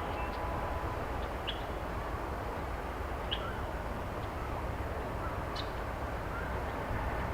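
A bird gives short, high chirps three times, about two seconds apart, over a steady low rumble and a soft outdoor hiss.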